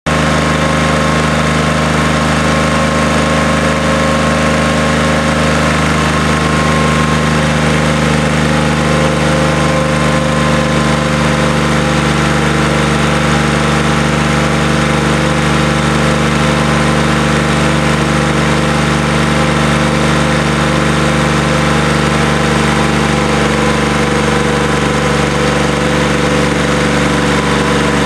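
QC385 three-cylinder diesel engine of a stationary drive unit running steadily at constant speed.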